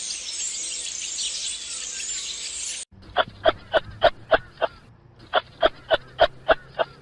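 A dense, high chirping chorus, then after an abrupt cut two bouts of rapid repeated animal calls, about six calls each at roughly three a second, with a short pause between the bouts.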